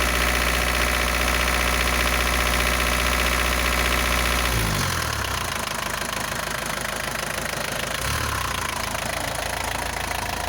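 Isuzu NPR diesel engine running at a raised idle, then about halfway through its speed drops to a lower idle and it keeps running. A rapid tapping noise runs with it, which the owner expects to go away once the engine has run a while.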